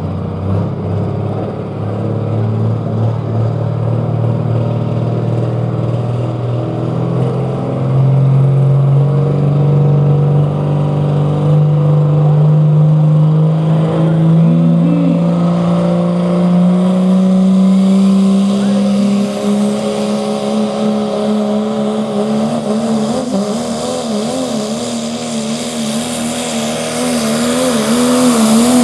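Pro Stock diesel pickup truck pulling a weight-transfer sled, its engine held at full power with the pitch climbing slowly and steadily as the run goes on. In the last several seconds the engine pitch wavers rapidly up and down as the load fights it, with rising hiss on top.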